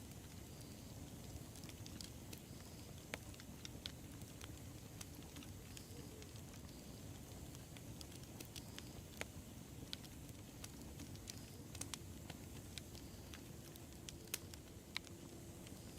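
Wood fire burning: a low steady rumble of flames with sharp crackles and pops at irregular moments, a couple of louder pops near the end.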